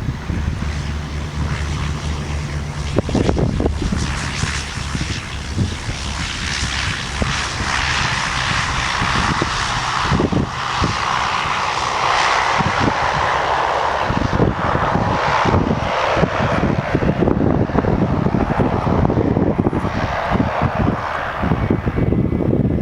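Jet aircraft engines passing, the rushing roar building to its loudest about halfway through and staying strong. Wind buffets the microphone with low thumps throughout.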